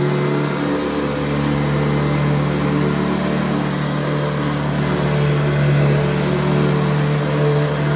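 Upright vacuum cleaner running steadily, its motor making a constant hum with a rushing of air.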